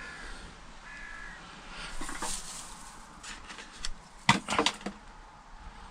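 A crow cawing twice near the start. Then a scatter of sharp knocks and crunches, loudest in a quick cluster about four seconds in.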